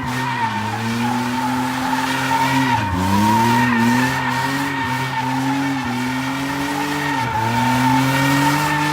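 Car drifting: the engine held at high revs while the tyres squeal steadily, the revs dipping briefly and climbing back several times.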